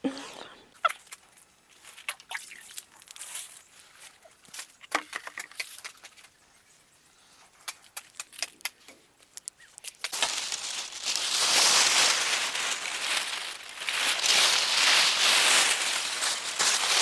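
Rough, sandpapery leaves of a sandpaper vine being rubbed and crumpled by hand, a loud dry rasping rustle that starts about ten seconds in and keeps going. Before that there are only faint scattered clicks and rustles.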